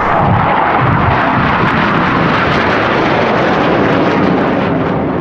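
BAE Systems Hawk T.65A jet trainers flying past, a loud steady roar of jet engine noise.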